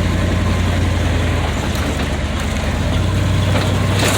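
A vehicle engine running steadily with a low hum, under rumbling tyre and road noise on a washed-out dirt road.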